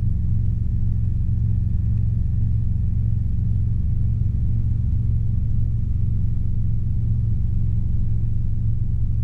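Robinson R22 helicopter in steady powered flight, heard inside the cabin: a constant low drone of engine and rotors with no change in pitch or level.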